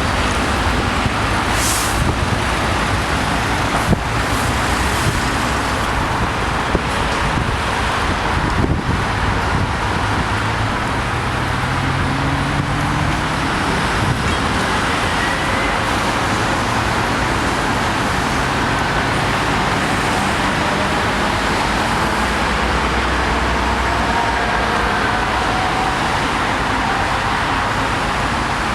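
Steady freeway traffic noise, the rush of passing vehicles and tyres, with a few short knocks in the first nine seconds.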